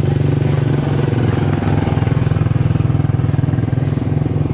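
Small engine running steadily close by, a low drone with a fast even pulse that holds the same pitch throughout.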